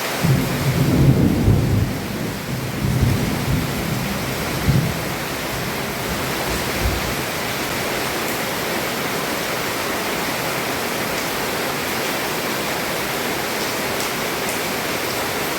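Heavy rain falling steadily, heard from under a roof, with a rolling rumble of thunder through the first few seconds that then dies away to the rain alone.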